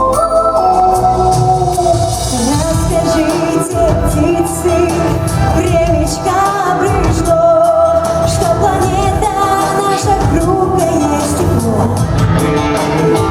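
A girl singing a pop ballad over a backing track with a steady beat, holding long notes with vibrato.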